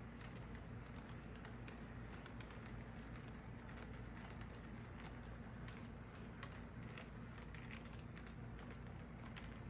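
Model train running on its track: a steady low hum with many light, irregular clicks from the wheels and track.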